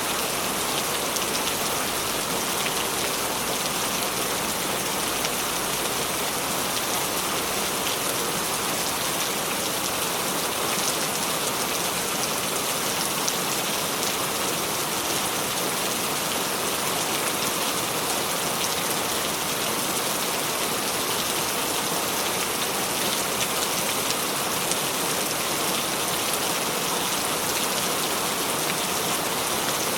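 Steady rain falling, an even patter of drops on a surface with no change in intensity.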